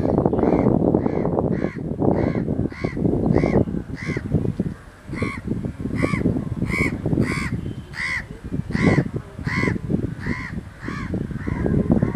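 A bird calling over and over in short arched calls, about two a second, over a loud uneven low rumble. The calls stop shortly before the end.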